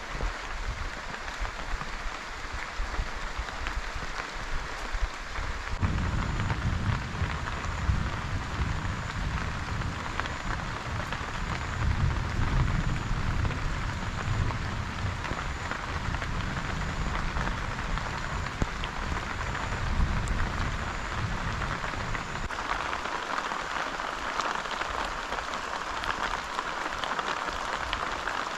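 Steady rain falling in a downpour, an even hiss of drops. From about six seconds in until a few seconds before the end, a low rumble runs under it.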